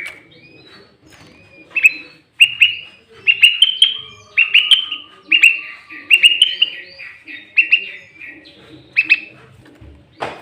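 Sooty-headed bulbul singing loudly: quick runs of sharp, clear chirping notes, densest in the middle. A sharp click comes near the end.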